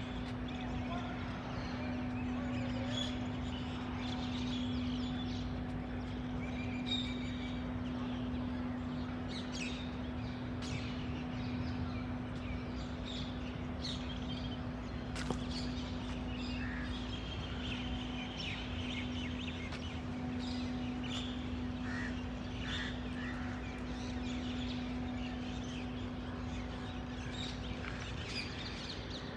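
Many birds chirping and calling in short scattered notes, over a steady low machine hum at one pitch.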